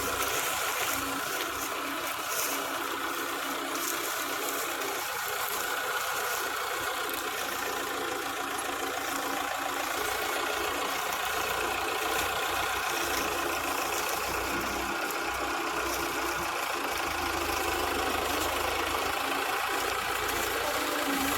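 Sugarcane harvester's engine running steadily, with a constant mechanical hum.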